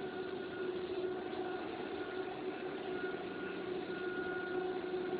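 PVC/WPC profile extrusion line running: a steady machine drone with several constant tones and no breaks.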